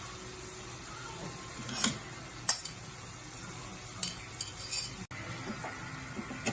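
Metal kitchen utensils clinking against cookware, a few sharp clinks about two seconds in and a quick run of them around four seconds in, over a steady background hiss.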